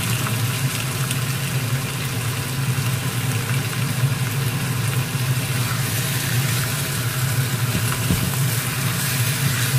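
Chicken pieces and onions sizzling in oil in a wok, with an occasional scrape of a wooden spoon, over a steady low machine hum.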